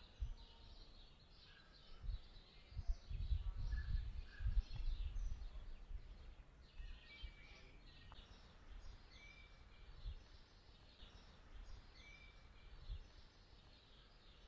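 Small birds chirping and calling repeatedly over a quiet street ambience, with a few short clear whistled notes. Low rumbling bumps on the microphone are the loudest sound, strongest from about two to six seconds in.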